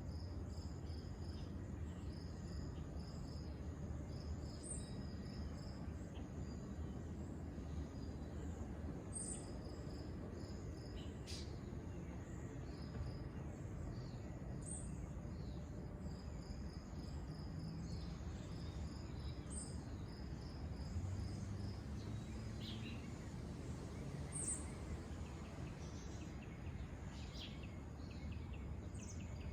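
Insects chirping in repeated pulsed trills, with a few short bird chirps scattered through and a steady low rumble underneath.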